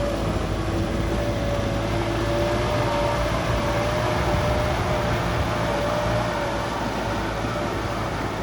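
Kubota tractor's diesel engine running steadily with a rotary tiller working, a constant whine over the engine's low rumble.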